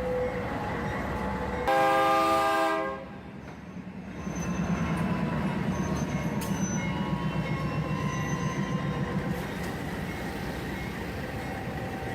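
A train horn gives one blast of about a second, about two seconds in. After it the train runs past with a steady low rumble and a rhythmic clatter of wheels on the rails.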